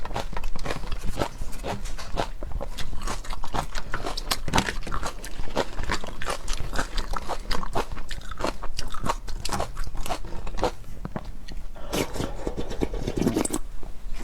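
Close-miked eating: a person biting and chewing seafood, with many small, quick crunches and wet crackles in an irregular stream.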